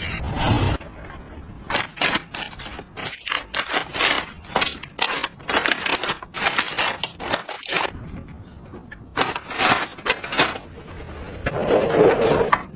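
Hands handling small plastic gadgets and packaging: a quick run of clicks and taps lasting several seconds, a few more taps after a pause, then a longer scraping sound near the end.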